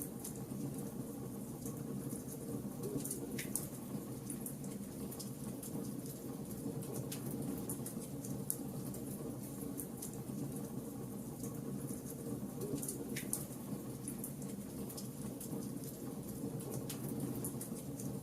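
Wood fire burning, with a steady low rush of flame and frequent small, sharp crackles from the burning wood. Two louder pops stand out, about three seconds in and again about thirteen seconds in.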